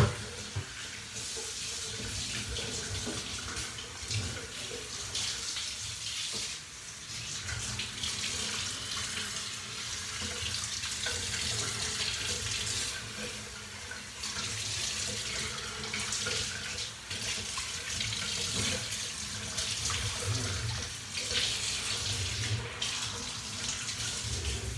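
Water running steadily from a tap during a puppy's bath, a continuous rushing hiss that swells and dips a little. A single sharp knock at the very start.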